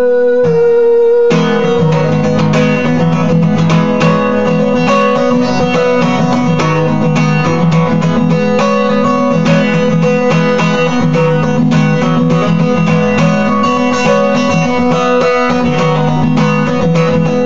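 Guitar strummed in steady chords as an instrumental close to a song. A held sung note breaks off a little over a second in.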